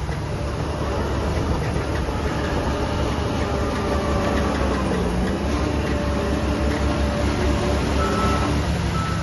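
Heavy diesel construction machinery running steadily, with a continuous low rumble and a faint whine that shifts in pitch.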